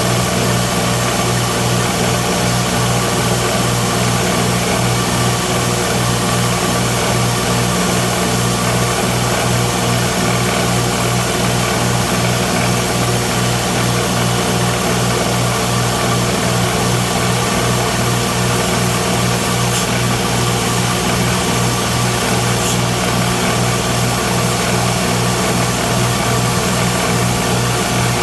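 A workshop machine's electric motor running steadily, with a strong hum and a constant high hiss, two faint clicks near the end.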